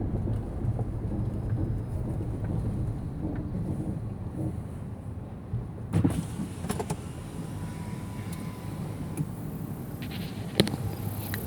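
Car's engine running, heard from inside the cabin as a steady low rumble, with a few sharp clicks about halfway through and again near the end.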